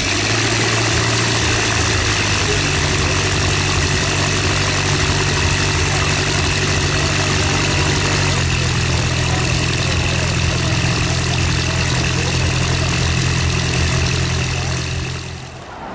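An engine running steadily under a constant hiss, its pitch stepping up twice, then fading out near the end.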